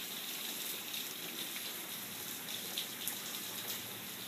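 Steady hiss of splashing water, with a few faint ticks like drips.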